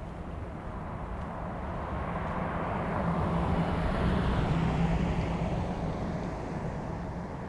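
A passing vehicle: its steady rushing noise with a low hum swells to a peak about four to five seconds in, then fades away.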